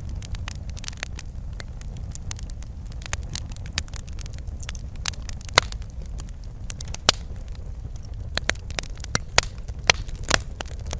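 Wood fire crackling in a fireplace: irregular sharp pops and snaps over a steady low rumble of the flames, with a few louder pops in the second half.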